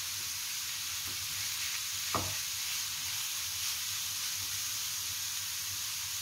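Grated bottle gourd sizzling steadily in hot ghee in a nonstick kadhai as it is stirred with a spatula, with a single soft knock about two seconds in.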